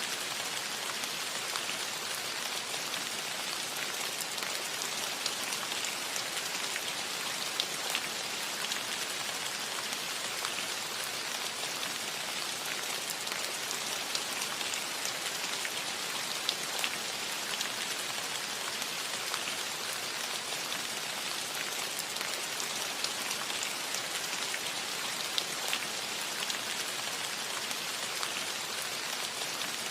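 Steady rain falling on a cottage roof: an even hiss with scattered individual drops ticking through it.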